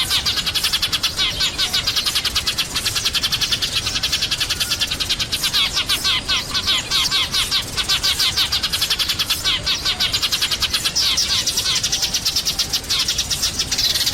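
A flock of sparrows chirping, males and females together: a dense, rapid, unbroken chatter of high chirps.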